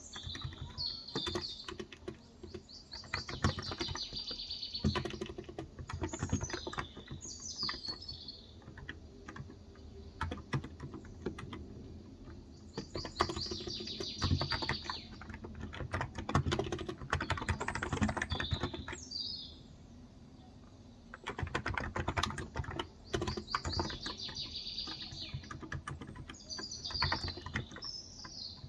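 Typing on a Cox Endeavour electrostatic-capacitive (Topre-style) 35 g tenkeyless keyboard: a steady patter of keystrokes with a short pause about two-thirds of the way through. Birds sing in short repeated chirping phrases in the background.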